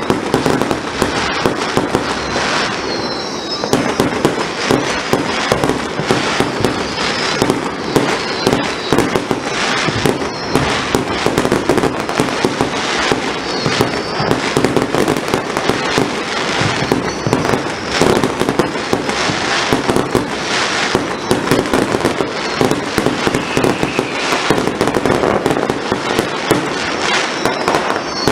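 A fireworks display: a continuous barrage of bangs and crackling, with high whistles now and then.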